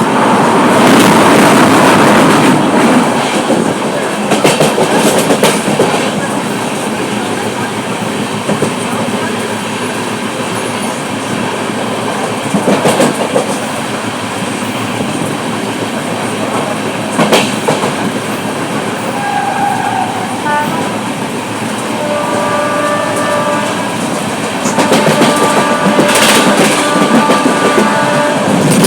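A passenger train running on the rails with a steady rumble and wheel clatter over the track joints. In the second half a horn sounds, in several short blasts.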